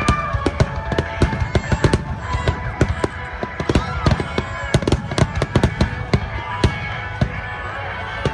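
Fireworks going off in a rapid, irregular barrage of bangs and crackles, several a second.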